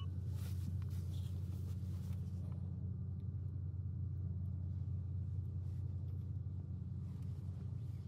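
Steady low hum with faint, sparse clicks and taps of small plastic toy gearbox parts being handled and fitted, mostly in the first couple of seconds.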